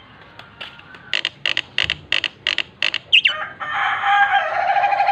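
A bird calling: a run of about seven short, sharp notes, about three a second, then a long drawn-out call starting a little past halfway.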